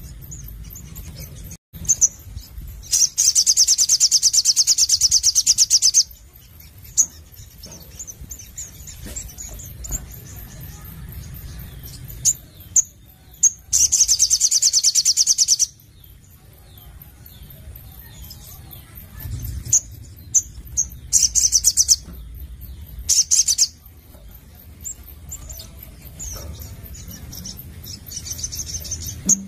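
Crimson sunbird (sogon) singing: four loud, very fast trills of high notes, each lasting from under a second to about three seconds, with softer scattered chirps between them.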